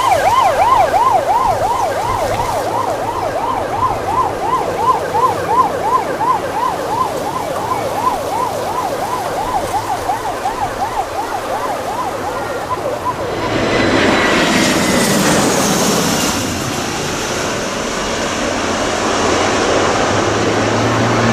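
An emergency-vehicle siren in a fast yelp, about two and a half sweeps a second, fades out about 13 seconds in. Then the jet engines of an EVA Air Airbus A321-211 (CFM56 turbofans) come in low overhead: a loud rush with a high whine that stays to the end.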